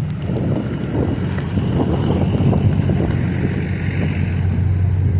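Pickup truck engine running with a steady, deep low rumble.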